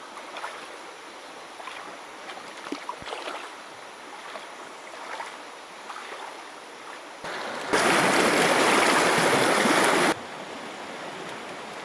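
Shallow mountain river flowing steadily, with small splashes and ticks of water. Near the end a much louder close rush of water comes in for about two seconds and cuts off suddenly.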